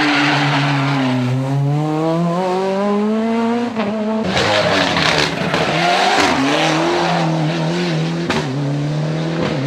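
Rally car engine accelerating hard, its pitch rising steadily for about three seconds, then dropping sharply at a gear change about four seconds in. It pulls on through the next gear, sounding rougher, with brief dips in pitch near the end.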